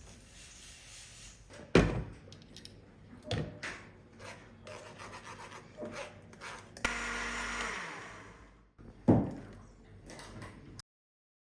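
Everyday handling sounds: rubbing and scraping with three sharp knocks, one about two seconds in, one about three and a half seconds in, and one about nine seconds in. A steady rushing noise starts abruptly about seven seconds in and fades out a couple of seconds later. The sound cuts to complete silence shortly before the end.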